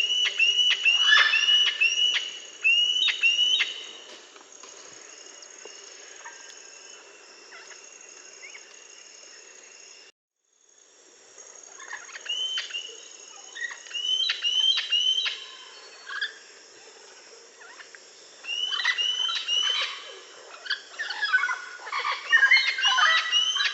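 Parrots calling in fast runs of short, sharp chirps, busiest at the start and again toward the end, with a quieter spell between. The sound cuts out for half a second about ten seconds in.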